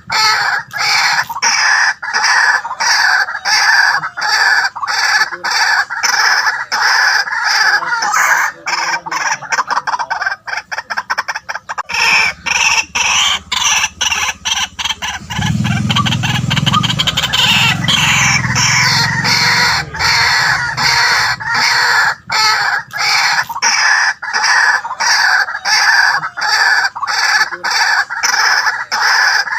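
White-breasted waterhen calling: a loud, harsh, repeated 'kwak' call, about two to three notes a second, with a quicker run of notes about a third of the way in. A lower, deeper sound joins it for a few seconds past the middle.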